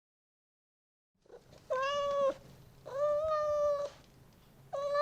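Domestic cat meowing three times, each meow long and held at an even pitch, starting about a second and a half in.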